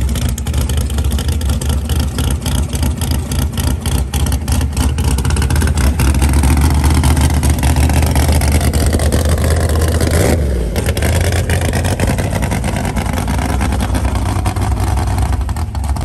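Big-block Chevrolet V8 in a coupe Mustang running with a choppy, pulsing idle. The engine gets louder, its pitch rising and falling, for a few seconds past the middle.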